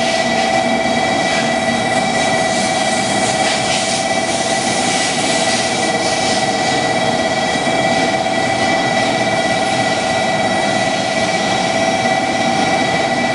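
Shinkansen bullet train rolling slowly alongside the platform: a steady rushing noise with several held, unchanging whining tones over it.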